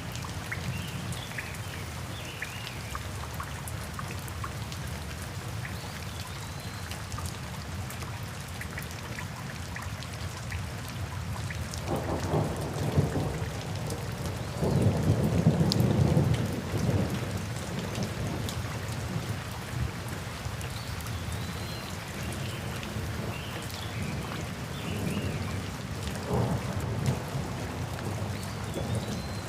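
Steady rain with rolling thunder. A low rumble swells about twelve seconds in and is loudest from about fifteen to seventeen seconds, with a shorter rumble near the end.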